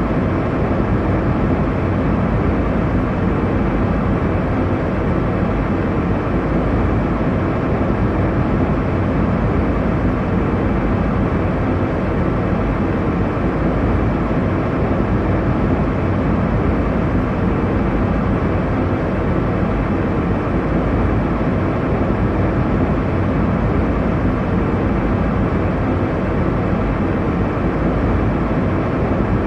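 Steady airliner cabin noise in flight: a constant low rumble of engine and airflow with faint steady hum tones, unchanging throughout.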